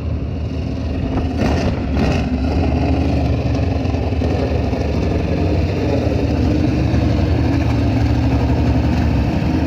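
A race engine running steadily just after being brought back to life with a new fuel pump, with a couple of brief louder noises about one and a half and two seconds in.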